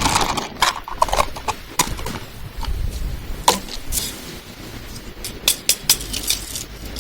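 Plastic bag crinkling and crackling in irregular sharp snaps as sticky dough is kneaded inside it.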